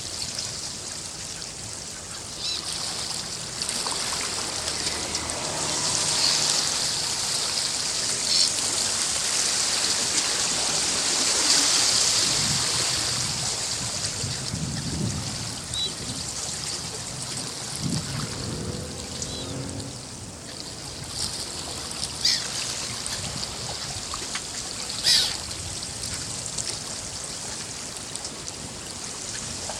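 Sea water washing over the shore and trickling back, swelling louder for a few seconds near the middle, with a few short, sharp splashes.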